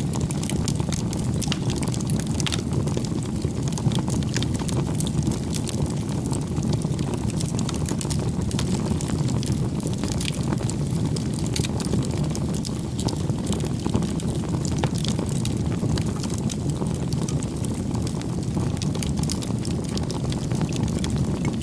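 Wood fire burning, with a steady low rumble of flames and irregular small crackles and pops throughout.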